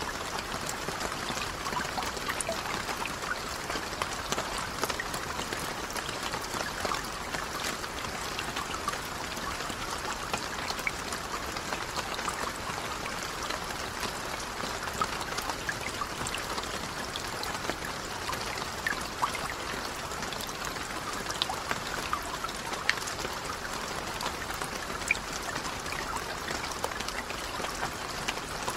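Steady rain falling on a lake's surface: an even hiss of rain with many small individual drop splashes scattered through it.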